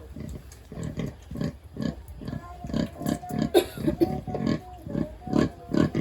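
Sow grunting in short, rhythmic low grunts, about three a second, as she farrows. A thin held whine joins from about two seconds in.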